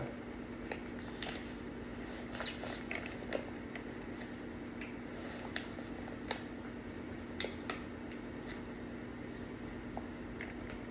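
Quiet eating sounds: scattered small mouth clicks and smacks of someone chewing food, over a steady low hum.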